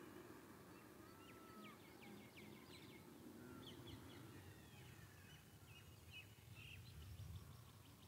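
Faint outdoor ambience: birds chirping, with a quick series of short chirps and a brief whistled note in the first few seconds and scattered calls after, over a low steady background rumble.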